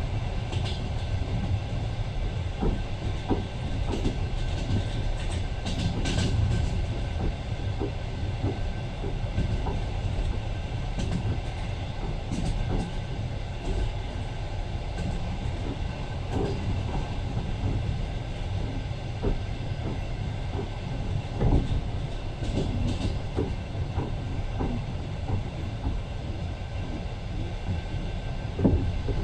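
Passenger train running along the track, heard from inside the carriage: a steady low rumble of the wheels with scattered clacks and knocks from the rails.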